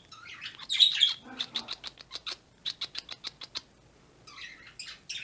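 Pet birds chattering and chirping loudly, with a loud squawky burst about a second in, then a quick run of short, sharp chirps and more chatter near the end.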